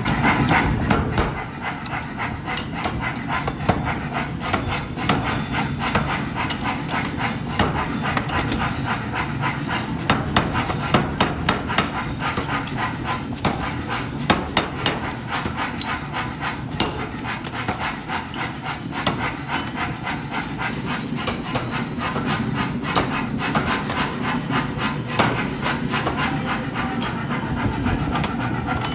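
Metal being hammered in forging: many rapid, irregular strikes run throughout at a fairly even loudness.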